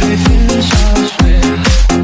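Progressive house dance music at 128 BPM: a four-on-the-floor kick drum on every beat under a bass line and synths, with the bass briefly dropping out about a second in.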